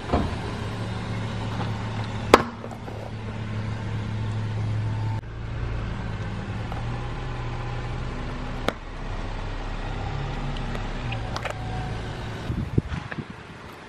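Car engine running with a steady low hum, broken by a few sharp cracks, the loudest about two seconds in.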